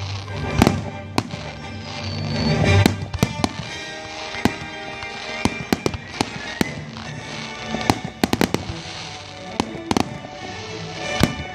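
Aerial fireworks bursting in an irregular run of sharp bangs and crackles, with music playing underneath.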